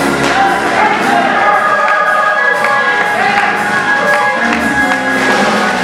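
Gospel music with a choir singing over instrumental accompaniment.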